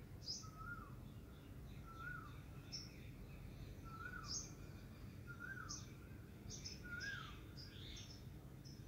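Faint birdsong: a short call that rises and falls, repeated about every second and a half, with brief high chirps in between, over a low steady background hum.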